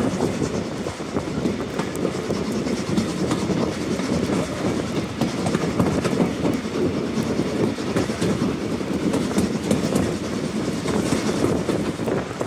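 Steam-hauled passenger coaches running along the rails, heard from an open carriage window: a steady rumble, with many short clicks from the wheels over the track.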